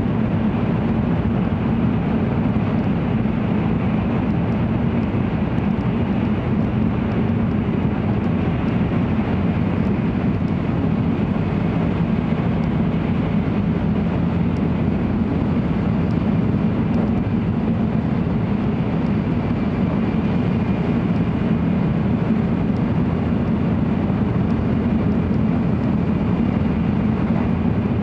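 Steady running noise inside the passenger cabin of an N700 series Shinkansen travelling at speed: an even low rumble with no breaks.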